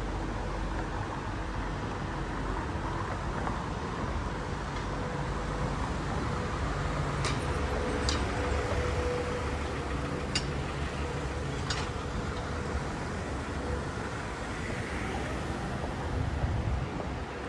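Street ambience with a steady hum of road traffic, and a few sharp clicks in the middle.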